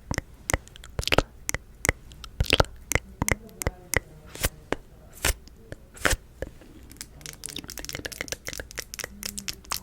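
Rapid, irregular sharp clicks and crackles that come faster and closer together after about seven seconds.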